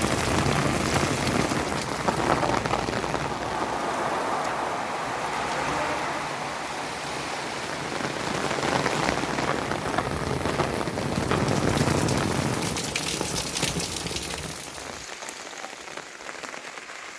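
Heavy rain falling, a dense steady hiss with many fine drop impacts, fading away over the last few seconds.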